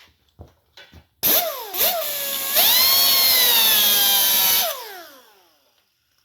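Power drill working in a cast-iron engine block during crack pinning. It is triggered in two short bursts, then runs steadily for about two seconds, then winds down with a falling pitch.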